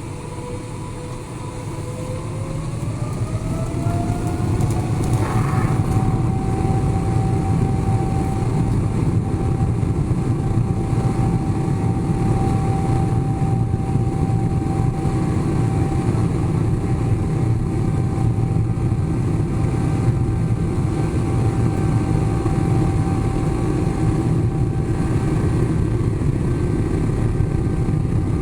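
Boeing 777-300ER's GE90 turbofan engines spooling up to takeoff thrust, heard from inside the cabin. A whine rises in pitch over the first few seconds, then holds steady over a loud, even rumble as the aircraft rolls for takeoff.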